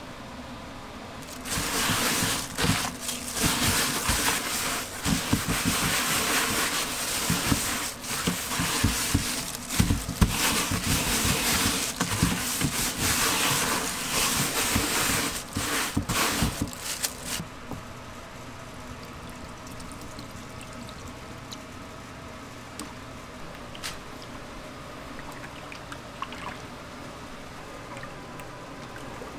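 Water running or splashing in a loud, uneven rush. It starts about a second and a half in and stops about seventeen seconds in, leaving only a faint steady hum.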